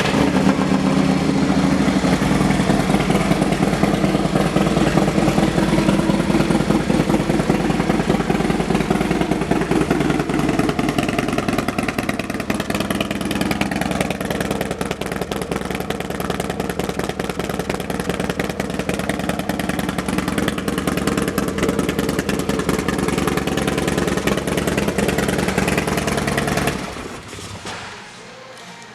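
2016 Harley-Davidson Dyna Low Rider S's 110 cubic inch Screamin' Eagle V-twin idling steadily through a Thunderheader exhaust, then shut off near the end.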